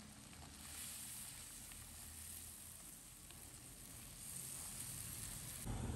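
Spice paste frying in oil in a frying pan, a faint sizzle. A louder low rumble comes in near the end.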